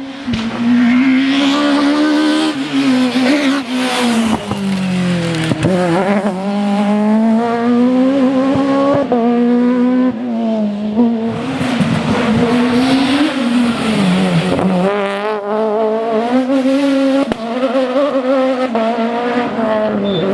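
A Kit Car / F2000 rally car's engine running at high revs, its pitch climbing and falling again and again as the car accelerates, lifts and brakes through a stage, with sharp pops on the overrun.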